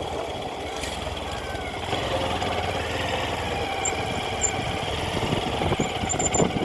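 A vehicle engine running steadily at low revs, like idling.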